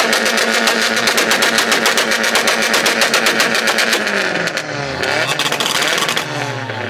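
Loud car engine running with a rapid pulsing exhaust note, then falling and rising in pitch as it is revved over the last few seconds.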